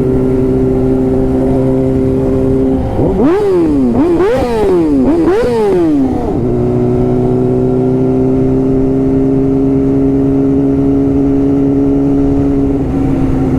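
Sportbike engine running at steady revs. About three seconds in comes a run of four quick throttle revs, each rising and falling in pitch; then it settles back to the steady note.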